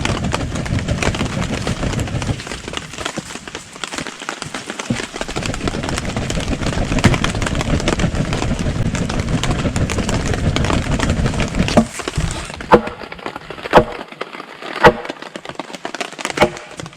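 Campfire of wet kindling crackling and popping under a low rushing noise for the first twelve seconds or so. Near the end come four sharp, loud snaps about a second apart.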